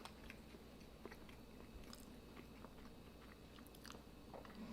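Faint chewing and mouth sounds of someone eating pizza, with a few soft scattered clicks of biting and crunching crust.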